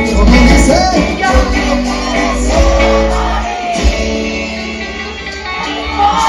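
Live band music with a heavy bass line, sustained instrument notes and a singing voice.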